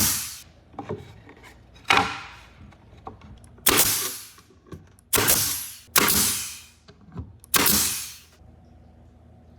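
Hand tool working wood: about six sharp strokes at irregular intervals, each fading out over about half a second, with lighter knocks between them. The strokes stop shortly before the end, leaving a faint steady hum.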